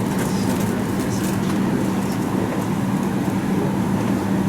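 Steady hum of the air-conditioning in a parked Boeing 737 MAX 8 cabin during boarding, with one low steady drone throughout and a few faint light rustles or clicks in the first second or so.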